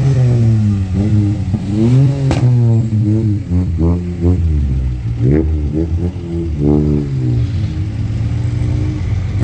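Engines of slowly passing cars running and being blipped, the pitch rising and falling repeatedly every second or so.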